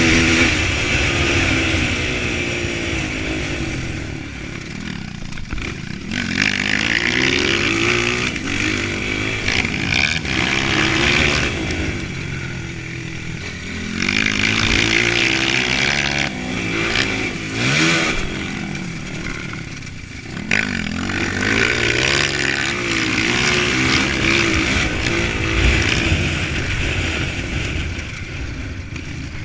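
Honda CRF230 dirt bike's single-cylinder four-stroke engine revving up and dropping back again and again as it is ridden, with a steady rushing noise underneath.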